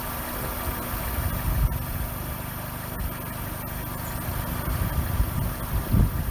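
2003 Honda Fit's four-cylinder engine idling steadily, heard from the open engine bay, with a few short low bumps near the end.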